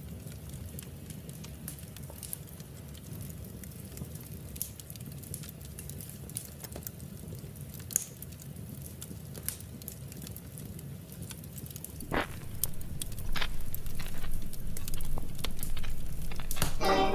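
Wood fire in a fireplace crackling, with scattered sharp pops over a low steady rumble that grows louder in the last few seconds.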